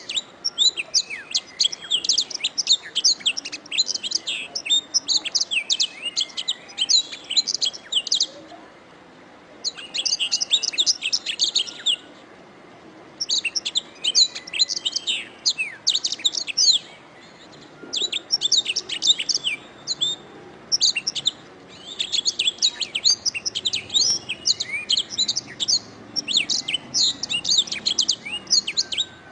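Domestic canary singing: long phrases of fast, high chirps and trills, broken by a few short pauses.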